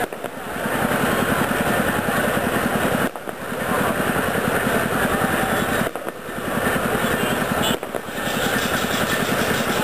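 Fireworks display: a dense, rapid, continuous crackle of exploding firecrackers, dipping briefly about three, six and eight seconds in.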